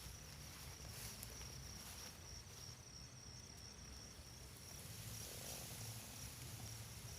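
Crickets chirring, a faint, steady high-pitched trill.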